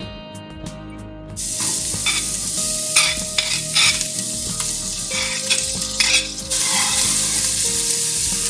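Food sizzling in a hot pan, starting about a second in, with a utensil stirring and scraping against the pan in short strokes; the sizzle grows louder past the middle.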